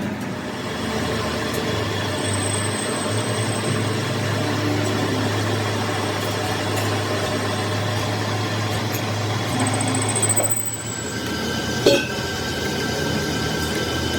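Metalworking machine running steadily with a high whine, easing off briefly a little after ten seconds in, followed by a sharp metal clink.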